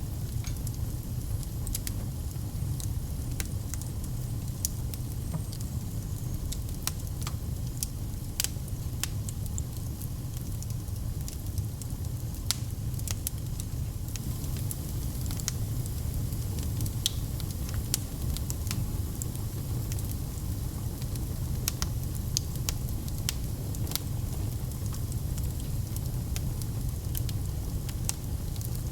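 Wood fire in a fireplace crackling, with frequent irregular sharp snaps over a steady low rumble.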